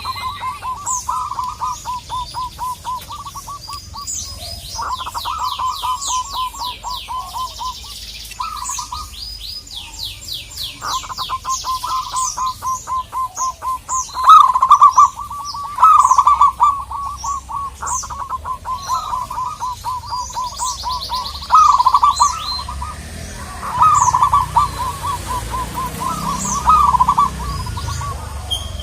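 Zebra doves giving their rapid staccato cooing calls: long runs of quick, evenly repeated notes, with louder rolling phrases several times over. Smaller birds chirp and trill higher above them.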